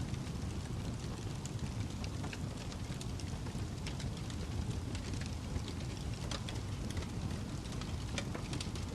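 Fireplace fire crackling: a steady low rumble with many small, irregular pops and snaps.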